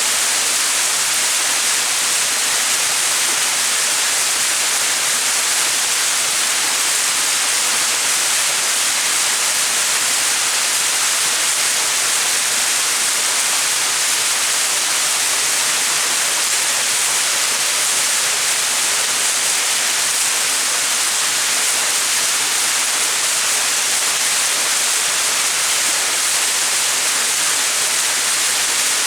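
Small mountain waterfall splashing steadily, an even hiss of falling water that is strongest in the higher pitches.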